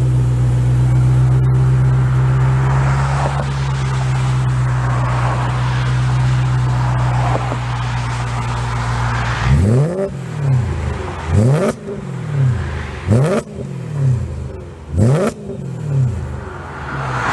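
BMW M3 engine through a stainless steel sport exhaust, running at a steady speed for about nine seconds, then blipped sharply about five times, each rev rising quickly and dropping back.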